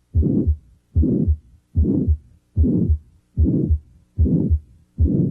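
Heart sounds heard through a stethoscope with a loud mid-systolic murmur, the murmur of aortic stenosis. In each beat a low first-sound thump is followed by a rushing murmur that swells and fades, then a second thump. The beats come in an even rhythm, a little under one a second.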